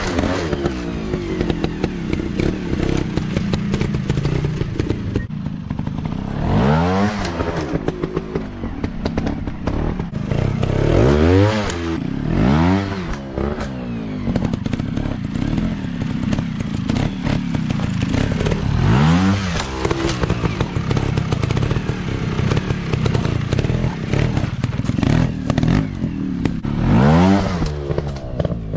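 Dirt bike engine running under load, revved up and dropping back again and again as the throttle is blipped over rough ground.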